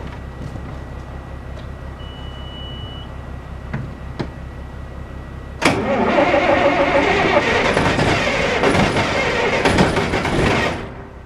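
A John Deere 8770 tractor's diesel engine being cold started. A short beep sounds about two seconds in. Just past halfway the starter engages and cranks the engine hard for about five seconds, then the cranking stops without the engine catching.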